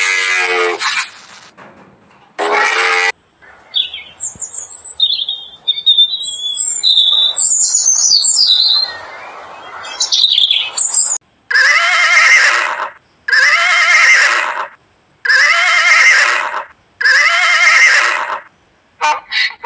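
A string of animal calls. Scattered high chirping and squawking calls come first. Then there are four evenly spaced drawn-out calls, each rising and falling in pitch, and near the end a quick run of short calls.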